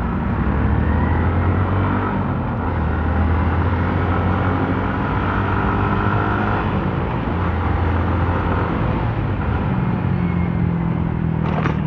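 Motorcycle engine running while riding through traffic, its note shifting up and down with the throttle over steady road noise, picked up by an action camera's microphone. A short sharp click near the end.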